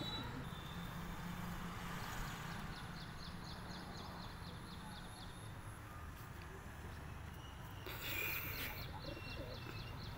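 A bird chirping in a quick series of short, high notes, about four a second, over a steady low outdoor rumble. A louder, harsher call comes about eight seconds in.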